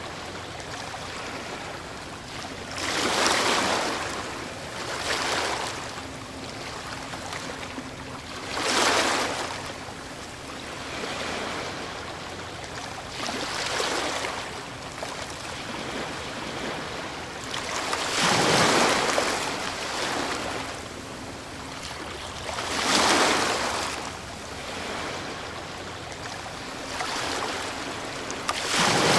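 Ocean waves breaking on a shore: a steady wash of surf with a louder rush as a wave breaks every few seconds, each swelling and then dying away.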